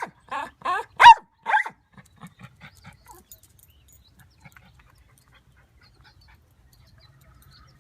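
A dog giving a quick run of short barks and yips, about three a second, loud at first and fading to faint yips that stop about three seconds in; a hungry dog demanding food.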